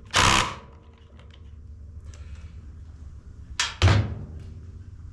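Two short, loud clattering knocks of parts and tools being handled during reassembly, about three and a half seconds apart; the second carries a low thud. Faint scraping and clicking handling noise runs between them.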